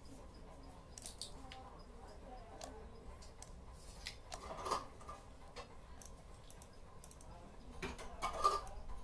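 Light clicks and rattles of objects being handled, with two brief, louder scraping rustles, one about halfway through and one near the end.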